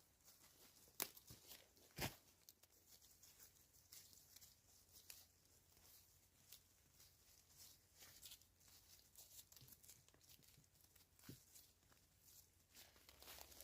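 Faint, scattered small clicks and crackles, with two sharper knocks about one and two seconds in.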